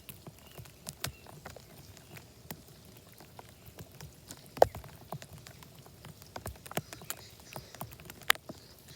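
Raindrops tapping irregularly on a plastic Ziploc bag sealed over the recording iPad, heard as scattered sharp ticks. One much louder tap comes about halfway through, and another near the end.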